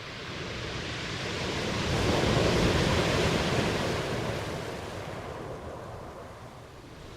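Ocean waves breaking: one wave swells to its loudest about two to four seconds in, washes and fades away, and the next begins to build near the end.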